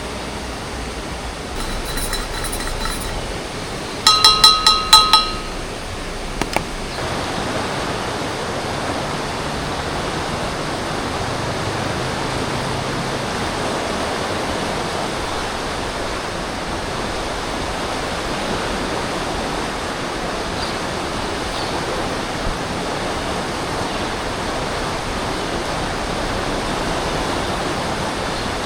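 Steady rush of river water. About four seconds in comes a quick run of ringing clinks, the loudest sound here, with fainter clinks just before.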